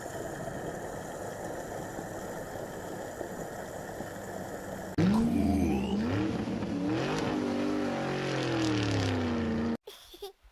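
Cartoon monster truck engine sound effect: a steady running hum, then about five seconds in a louder engine revving up and down in pitch, which cuts off suddenly near the end.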